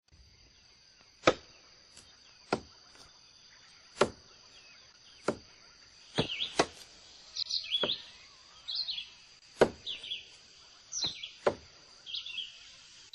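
Forest soundtrack: about eleven sharp knocks at irregular intervals, over a steady high insect drone. Short bird chirps join from about six seconds in.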